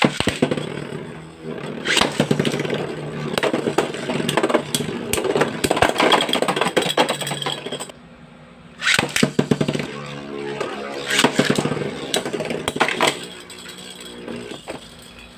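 Metal Beyblade spinning tops, Lightning L-Drago 100HF and Thermal Lacerta WA130HF, clashing and rattling against each other in rapid runs of clicks and knocks. There is a brief lull about eight seconds in, then a second flurry of collisions that dies away near the end.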